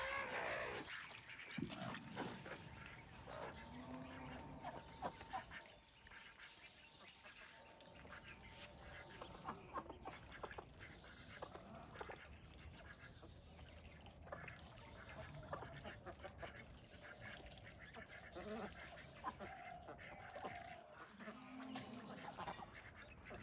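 Scattered animal calls, short and at irregular intervals, over background noise.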